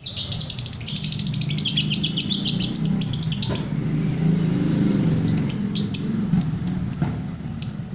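A songbird singing a fast, rapid trilling phrase for about three and a half seconds, then, after a short pause, giving separate short chirps. A steady low hum runs underneath.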